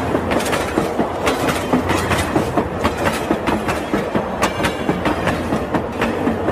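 A train running, its wheels clicking steadily several times a second, with a low hum that swells now and then.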